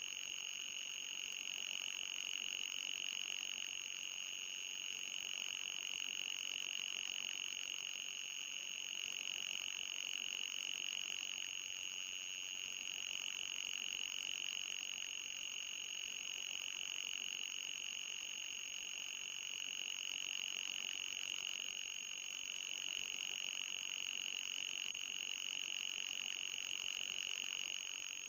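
Electronic anti-mosquito repellent tone: a steady, high-pitched tone with a slight waver, a fainter higher tone above it and a light hiss underneath.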